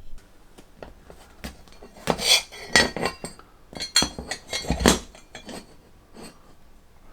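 Black-iron fire pit leg parts clinking and clanking against each other as they are fitted together, with the loudest clatter in two clusters about two and four seconds in.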